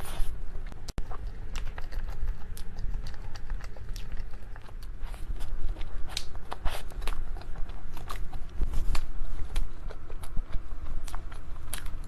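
Close-miked eating: biting and chewing, with many small sharp clicks and mouth sounds scattered through.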